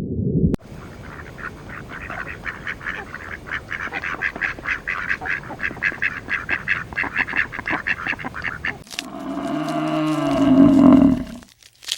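A flock of ducks or geese calling in quick, repeated notes for most of the stretch, then about nine seconds in a loud, deep, drawn-out moo from a cow or buffalo that breaks off near the end.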